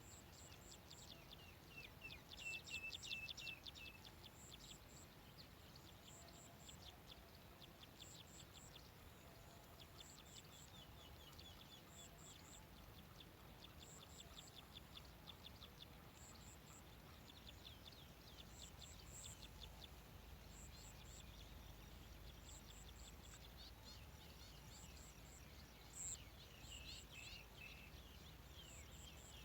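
Faint birdsong: rapid trills, plus a high, thin triple pip repeating about every second and a half.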